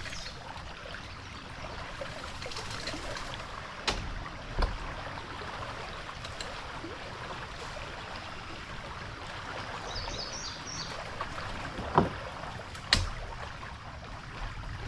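Steady hiss of moving river water around a kayak, broken by a few sharp knocks, the loudest two near the end. A short burst of high bird chirps comes about ten seconds in.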